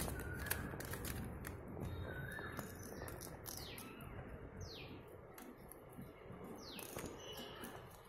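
Short, high bird chirps that fall in pitch, several of them a second or more apart. In the first couple of seconds there are a few light clicks.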